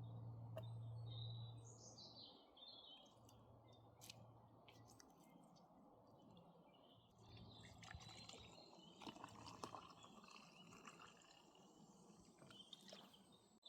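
Near silence with faint birdsong. A low, steady hum runs for the first couple of seconds and then stops, and a few faint clicks come around the middle.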